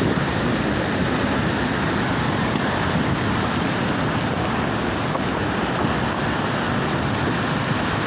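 Fast mountain river, the Karatag, rushing steadily with an even, unbroken sound of water.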